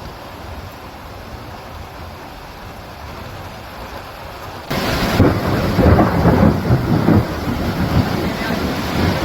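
Thunderstorm with rain: a low thunder rumble, then about halfway through a sudden, much louder crack that rolls on as irregular rumbling.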